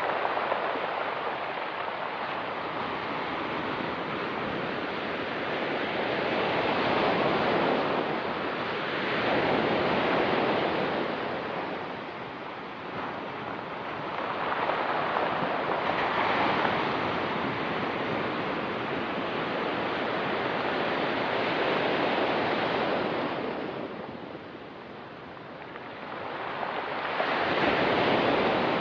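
Ocean surf washing onto a rocky pebble beach, the sound rising and falling in slow surges every several seconds as waves break and draw back.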